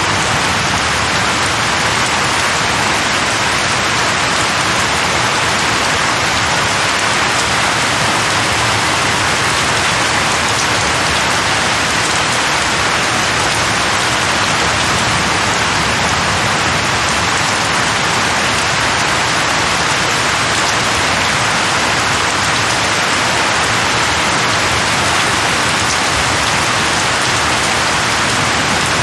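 Heavy rain falling steadily on a surface, a dense, even hiss without pauses or distinct drops standing out.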